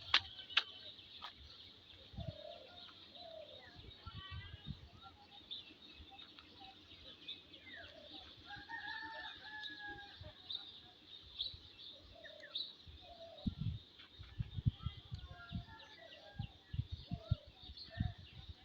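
Domestic chickens clucking and calling over a steady high-pitched background hum, with a run of low thumps in the second half.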